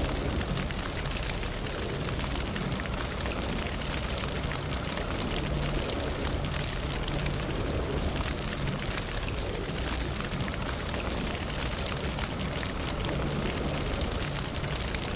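Campfire burning steadily with a low rumble of flames and frequent small crackles and pops from the wood.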